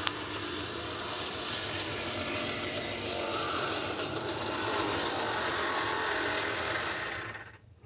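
Brass O scale model diesel locomotive running on track: a steady electric motor hum with wheel and gear rattle, which fades out near the end.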